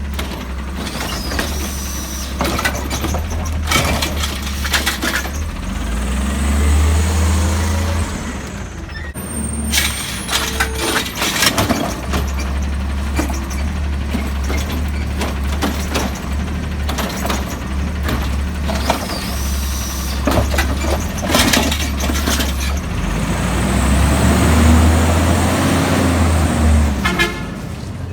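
Diesel garbage truck collecting recycling carts: its engine revs up and back down twice, about six seconds in and again near the end, with sharp clanks and clatter in between.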